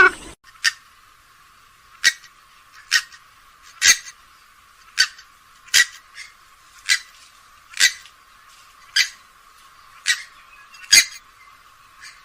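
Grey-headed swamphen giving a series of short, sharp calls, about one a second, roughly a dozen in a row.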